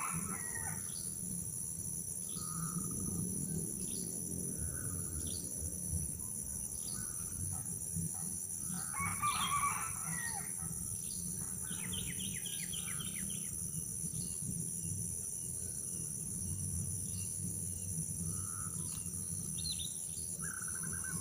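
Birds calling: a short call phrase at the start, another about halfway through, then a quick run of repeated notes, over a steady high-pitched hiss.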